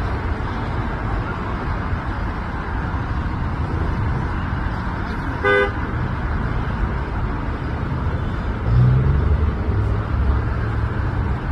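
Steady road traffic noise, with one short vehicle horn toot about five and a half seconds in and a louder low vehicle rumble a few seconds later.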